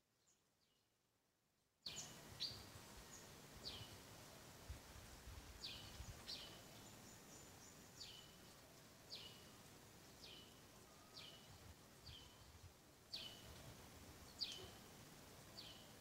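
A bird repeats a short, high call that slides downward, about once a second, over faint outdoor background noise; the calls start about two seconds in.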